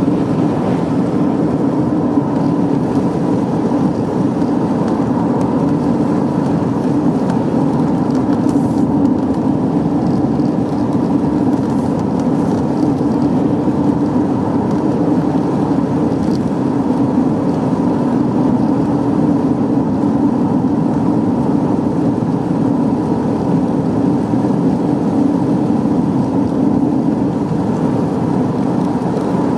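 Car driving at a steady speed: a loud, even, unchanging rush of road and engine noise.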